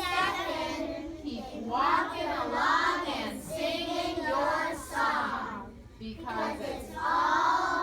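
A group of young children's voices reciting together in unison, in a sing-song chorus.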